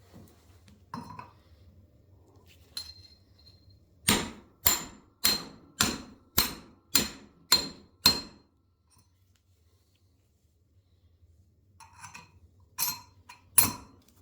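Sharp metal-on-metal strikes, a tool driving a new guide bushing into a motorcycle front fork: eight evenly spaced ringing knocks at about two a second, then a pause and about three more near the end.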